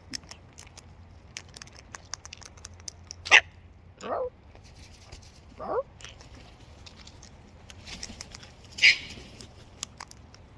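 Cockatoos giving short harsh squawks and screeches, four in all, the loudest a third of the way in and again near the end, with a run of faint sharp clicks and scratches between them.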